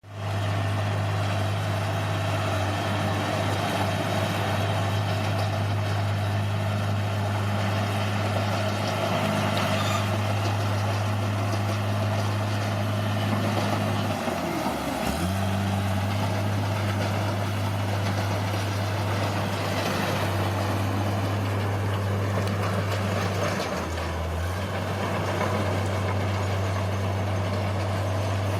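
Bulldozer's diesel engine running steadily, its note dipping briefly twice as it takes load.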